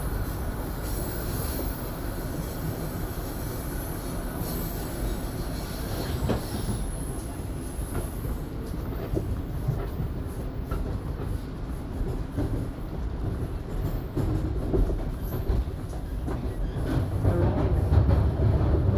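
Toronto subway train on Line 1 (a Toronto Rocket train), heard from aboard, running toward a station stop: a steady rumble of wheels on rail with a faint high wheel squeal in the first few seconds, and the rumble growing louder near the end.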